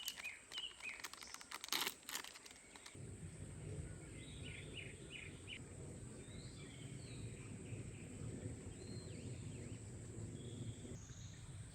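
Birds calling in forest: a quick run of four chirps and several other short calls, over a low steady rush. In the first few seconds, a few close crinkling and tapping sounds.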